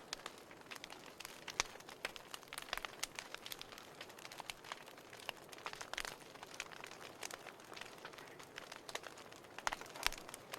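Burning firewood crackling: irregular sharp snaps and pops, some louder than others, over a soft steady hiss.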